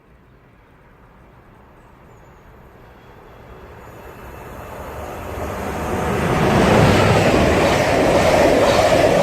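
Class 90 electric locomotive and Mark 3 intercity coaches approaching and running through the station at speed. The sound builds from a faint rumble to a loud rush of wheels and train about six to seven seconds in, and stays loud.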